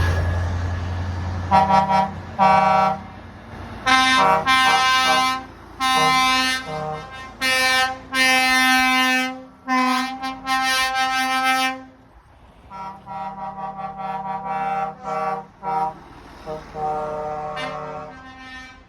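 Truck air horns sounding in a string of blasts, some short toots and some held for a second or two, at two or three different pitches. A low truck engine rumble fades away in the first second.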